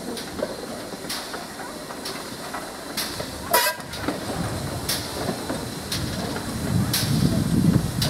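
A train moving at a station: sharp knocks about once a second, with a low rumble that builds through the second half.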